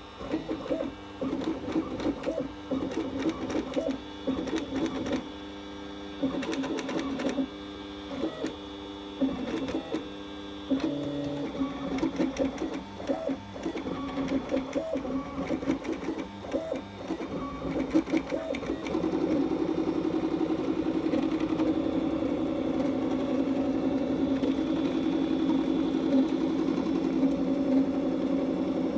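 Stepper motors of an i3-type 3D printer making loud noises: pitched buzzing in short stop-start moves at changing notes, then a steady run of buzzing from about two-thirds of the way in.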